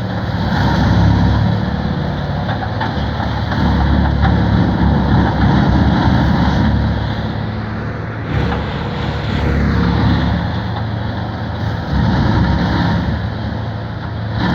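Case IH MX210 tractor's diesel engine running under load as it drives a Highline bale processor shredding and spreading a reed canary grass bale. The level swells and dips every few seconds.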